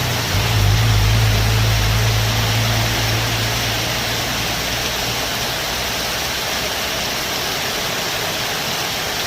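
Heavy rain falling, a steady hiss. A low hum sits under it at first and fades out about four seconds in.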